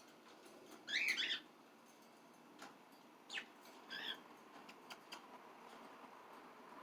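Small pet parrots chirping: one loud warbling call about a second in, then two shorter chirps around three and four seconds in.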